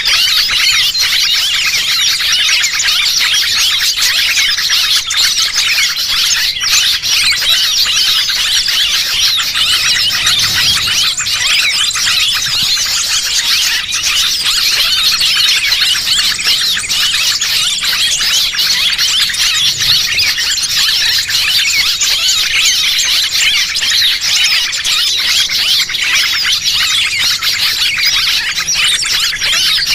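Dense, unbroken chorus of many small birds chirping and twittering in rapid, high-pitched overlapping calls. It is a bird-lure (pikat) recording made to draw small birds in.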